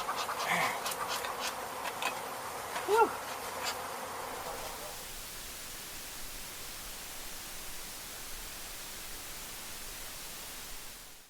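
Honey bees buzzing in a dense swarm around an open colony, with a few sharp clicks in the first few seconds, then settling into a steadier hum.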